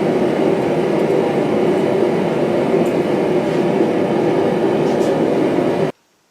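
Steady, loud roar of a blacksmith's forge running, with no hammer blows; it cuts off suddenly near the end.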